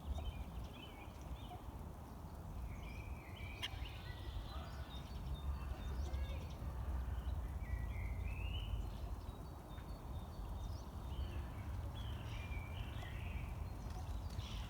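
Ducks calling in short, scattered calls over a low, steady rumble of wind on the microphone.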